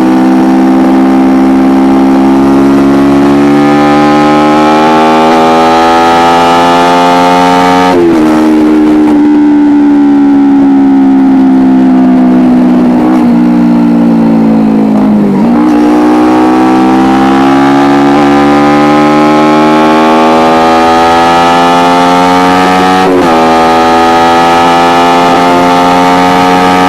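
Kawasaki Ninja 250R's parallel-twin engine through an Akrapovic exhaust, heard onboard while riding. It revs up under acceleration, drops sharply at an upshift about 8 s in, and falls steadily as the bike slows. It then picks up again as the throttle opens, with another upshift about 23 s in and a third near the end.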